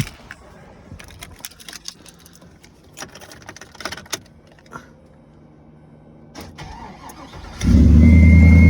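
A few light clicks and knocks, then about seven and a half seconds in a Chevrolet 6.0-litre V8 on true dual Flowmaster exhausts is cold-started and settles at once into a loud, steady fast idle. A thin high whine from the alternator, which the owner calls screaming, comes in just after it catches.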